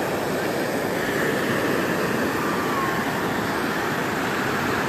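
Steady rushing wash of surf breaking on the beach, with a breeze, continuous and unbroken.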